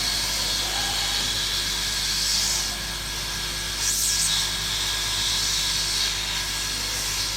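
Hot air rework station blowing a steady hiss of hot air, heating an underfilled iPhone RF board to melt the solder before it is pried off.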